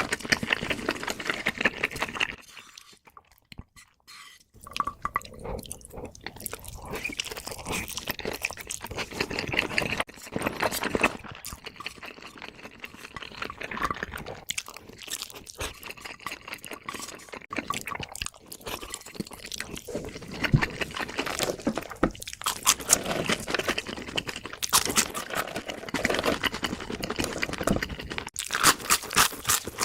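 Close-miked chewing and crunching of food, with wet mouth sounds, pausing briefly about three seconds in.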